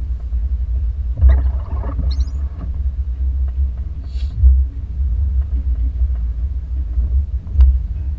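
Steady low rumble of a car being driven, heard from inside, with a short higher-pitched rattle or squeak about a second in.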